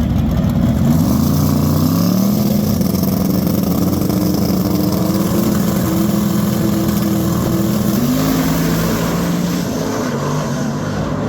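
Car engine running under way: its pitch rises about a second or two in, holds steady, then drops back about eight seconds in.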